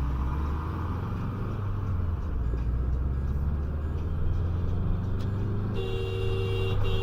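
Steady low engine and road rumble of a car driving, then a car horn held for about a second and a half near the end, with a brief break.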